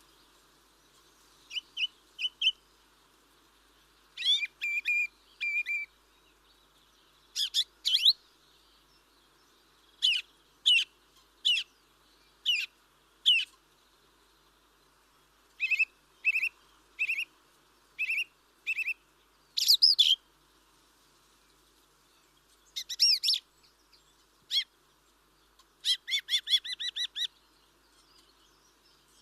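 Birds chirping: short runs of two to six sharp, high notes, coming every second or two with short pauses between them, over a faint steady background hiss.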